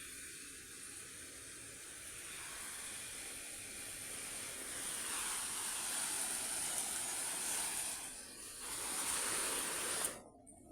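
Garden hose spraying water onto greenhouse plants, a steady hiss that grows louder partway through, dips briefly, then cuts off suddenly near the end.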